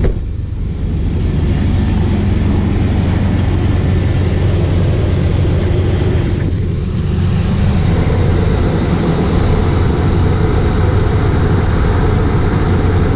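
Chevy Blazer's 4.3-litre V6 idling steadily right after an oil change, run with fresh oil to bring up oil pressure and check for leaks. The sound dips briefly twice, about half a second in and again around seven seconds.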